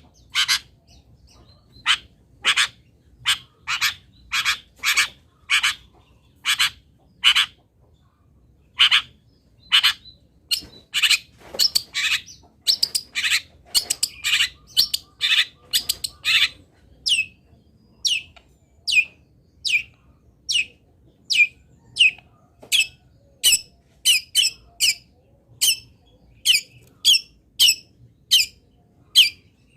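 A bird repeating short, harsh, high calls about every half second: a masteran recording of fill-in calls for training long-tailed shrikes. A little past the middle the calls change to shorter notes that slide downward.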